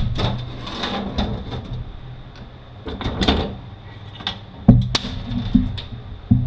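Metal clunks, knocks and scraping as the center case of a Mazda six-speed manual transmission is worked off the gear shafts by hand, with several sharper clunks in the second half.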